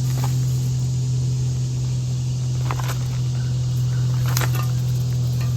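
A steady low hum, like a motor running, with a few brief rustles or scrapes about three and four and a half seconds in.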